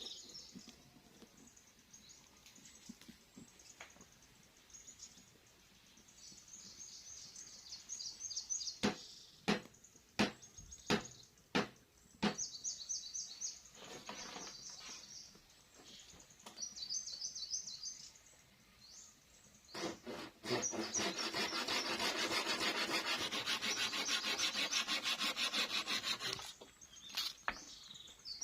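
Wood being worked by hand: about five sharp chops, then six seconds of fast, even rasping on wood that is the loudest part. A small bird sings short high trills several times in between.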